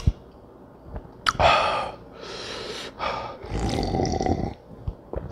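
A person huffing out loud breaths through the mouth against the burn of very spicy chicken, then drinking from a glass with a long noisy gulp about three and a half seconds in.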